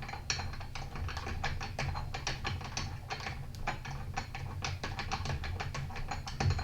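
Ratchet wrench clicking rapidly and unevenly, as in loosening a small engine's spark plug, over a steady low hum.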